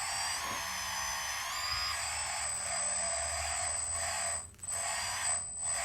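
Small electric motors and gearing of a radio-controlled excavator whining as it works. The pitch glides up about half a second in and steps up again shortly before two seconds. The whine drops out briefly twice near the end.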